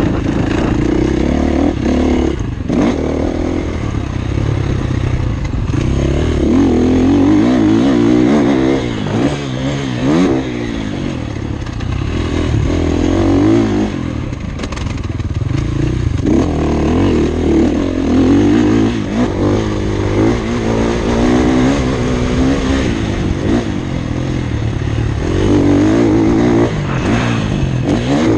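Motocross bike engine heard from onboard during a lap of a dirt track, revving up and falling back again and again as the rider works the throttle through the course.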